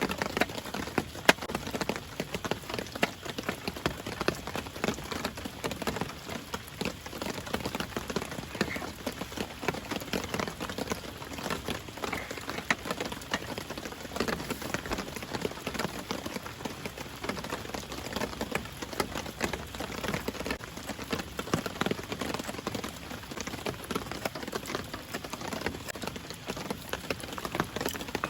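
Steady rain, with many sharp, irregular drop hits close by.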